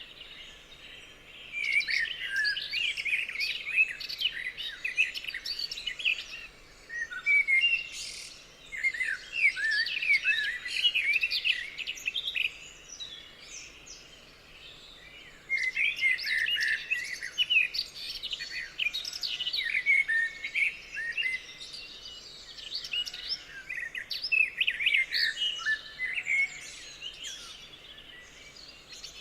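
Several songbirds chirping and trilling together in a forest chorus, in busy spells broken by a quieter lull in the middle.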